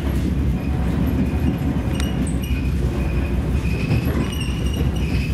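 Train running on rails: a steady low rumble with faint high-pitched wheel squeaks and a single sharp click about two seconds in.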